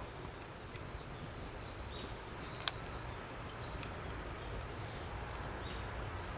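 Wood fire in a LOGOS fire stand crackling, with faint scattered ticks and one sharp pop about two and a half seconds in.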